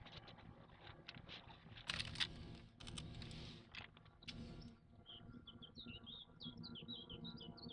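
Brief rustling noises, then small birds chirping in quick, short, high notes from about two-thirds of the way through.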